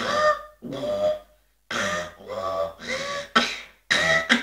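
Beatboxer's robot sound: a string of short, voiced mouth bursts with gliding pitch, about two a second, with a brief pause about a second in. It is made with the tongue on the roof of the mouth behind the upper front teeth, air pushed out both sides of the mouth while voicing.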